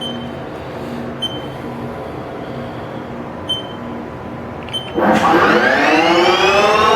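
Haas TL-2 CNC lathe: four short beeps from the control panel over a steady machine hum, then about five seconds in the spindle spins up counterclockwise with a rising whine that levels off near the end.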